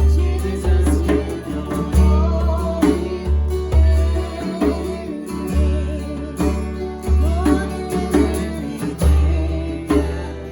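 Worship band music: guitar and deep bass notes in a slow, steady pulse, with a wavering melody line over them.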